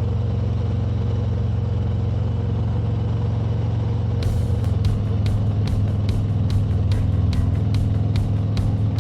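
Motorcycle engine running steadily while riding, with road and wind noise. About four seconds in, background music with a fast, steady beat comes in over it.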